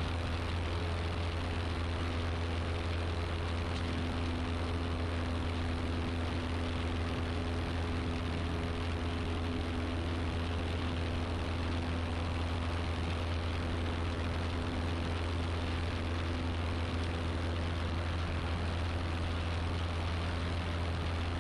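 Light propeller airplane's piston engine and propeller in cruise, a steady, even drone heard from inside the cockpit.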